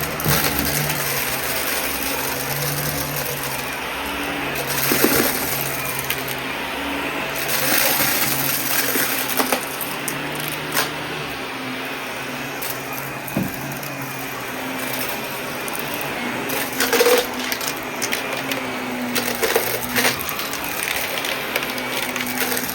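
Vacuum cleaner running steadily with a wavering motor hum and a high whine. Sharp clicks and rattles come through as it picks up scattered debris, clustered about five seconds in and again from about seventeen to twenty seconds in.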